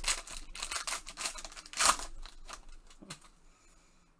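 A trading-card box and its pack wrapper being torn open and handled: a quick run of crackles, snaps and tearing, loudest about two seconds in, then dying away after about three seconds.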